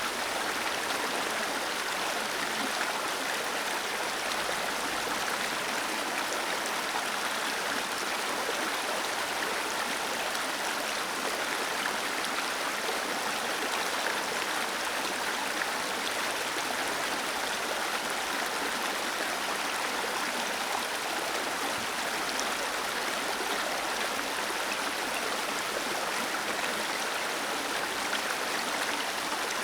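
Waterfall cascading into a stream: a steady, even rush of falling water.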